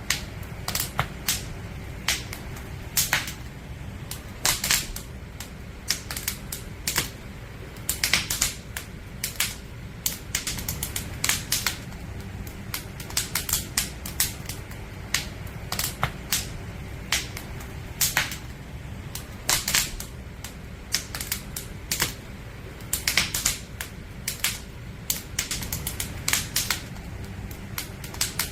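Firewood burning in a campfire, crackling with irregular sharp pops and snaps, sometimes in quick clusters, over a steady low rumble.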